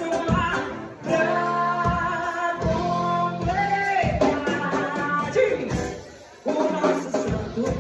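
Live singing with instrumental accompaniment: a slow romantic Brazilian song, with long held notes and a short lull about six seconds in.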